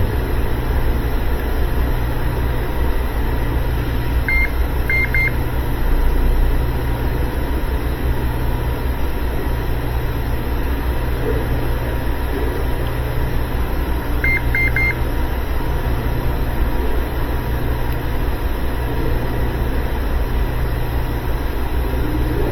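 Steady low vehicle rumble of a Kia Optima, with two brief groups of short, high electronic beeps about ten seconds apart: one beep followed by two, then later three in a row.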